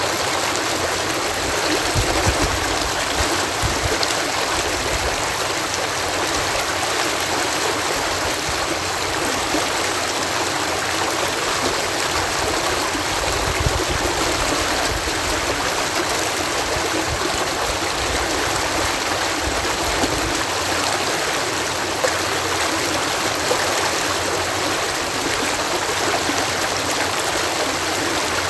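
Water pouring steadily over a canal lock gate, a constant rushing with faint low rumbles now and then.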